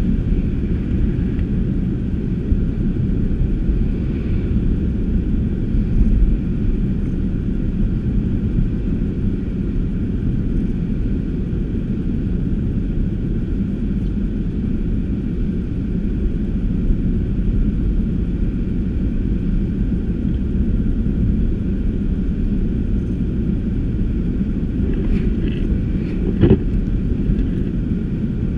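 Car driving: the engine and tyres make a steady low rumble, with a brief sharp knock about 26 seconds in.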